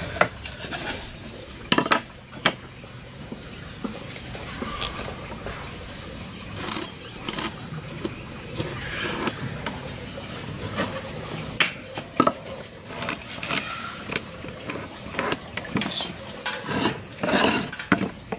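Irregular knocks and clacks of wood and hand tools being handled, with no steady rhythm. A steady high insect drone runs behind.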